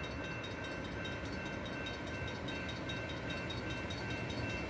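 Amtrak San Joaquin passenger train approaching on the rails, its rumble growing slowly louder, with a railroad crossing bell ringing steadily over it.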